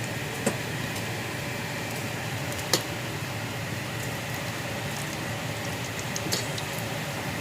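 Bacon frying in a pan: a steady sizzle with a few sharp pops and crackles of spitting fat.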